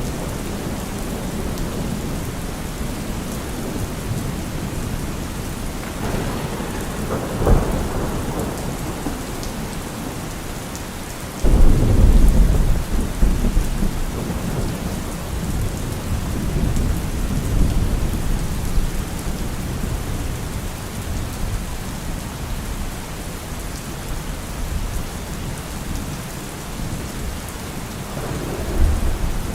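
Steady rain with thunder. A rumble with a sharp crack comes about seven seconds in. A sudden loud clap comes about eleven seconds in and rolls on for several seconds, and another rumble builds near the end.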